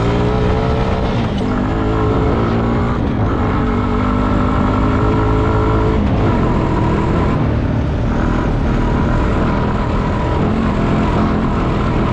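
Small motorcycle engine under hard acceleration while racing across a field. Its pitch climbs and then drops at each gear shift, about a second and a half, three and six seconds in, over a rush of wind.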